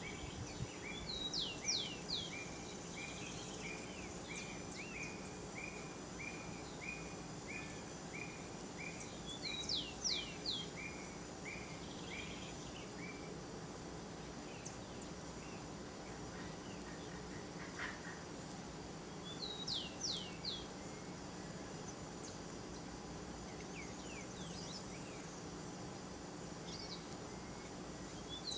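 Birds calling in forest ambience: a run of short, evenly spaced notes, about one and a half a second, that stops about halfway through, and several clusters of three or four quick, sharp high notes that come back about every nine seconds. A faint steady insect drone runs underneath.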